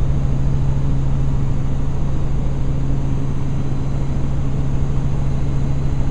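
Helicopter in flight: a steady drone with a strong low hum and a fast, even low-pitched beating underneath.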